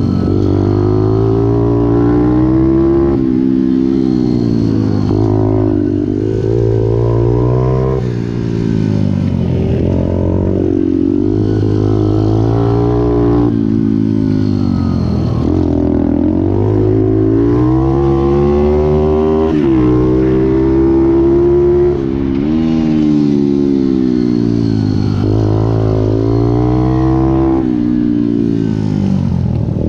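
Pit bike's single-cylinder four-stroke engine revving up and falling back over and over, its pitch climbing for a few seconds and then dropping, sometimes suddenly, as the rider accelerates and shifts or brakes.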